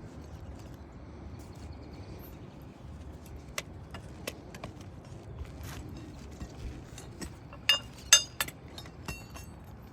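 Small metal objects clinking and tapping, scattered sharp clicks over a steady low background. Two louder, sharper metallic knocks with a brief ring come close together about eight seconds in.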